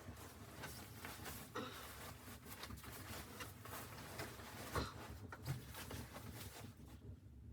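Scattered, irregular light clicks and taps, a few louder knocks among them, that die away just before the end.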